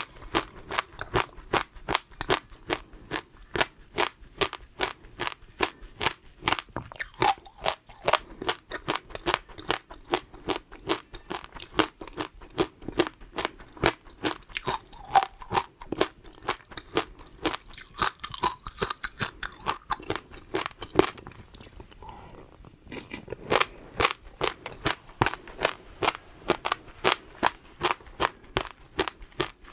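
Close-miked chewing of crunchy food: a steady, rhythmic run of crisp crunches at about three to four a second, with a short pause about three-quarters of the way through.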